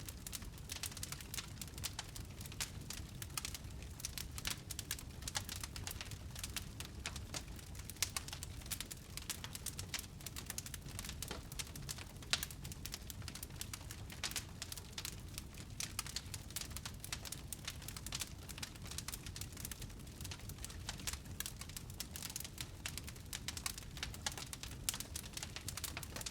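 Wood fire burning in a fireplace, crackling with frequent sharp pops and snaps over a low rumble of flame.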